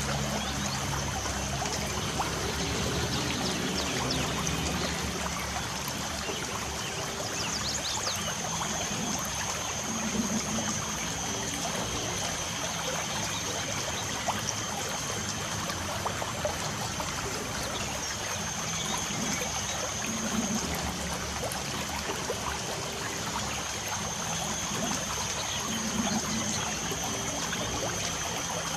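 Light rain falling steadily, a dense patter of drops with a trickling, running-water sound. A few brief bird chirps come near the start and about eight seconds in, over a thin steady high tone.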